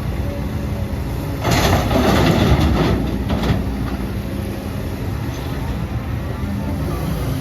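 Heavy diesel earthmoving machinery running steadily, with a louder rush of soil and stones being dumped lasting about two seconds, from about a second and a half in.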